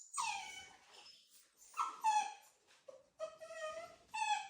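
Dog whining, a string of about five short, high-pitched whines, several of them falling in pitch.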